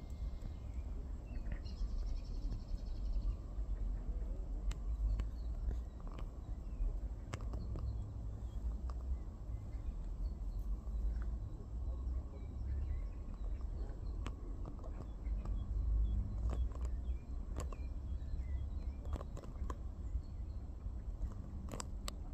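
Outdoor ambience: a steady, uneven low rumble throughout, with scattered faint clicks and a few faint, short, high bird chirps.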